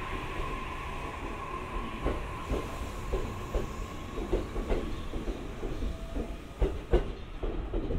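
JR East E531 series electric train pulling out of the station past the platform, its wheels clacking over the rail joints in an irregular run of knocks that grows stronger, with two sharp clacks near the end. A steady high whine fades out about two and a half seconds in.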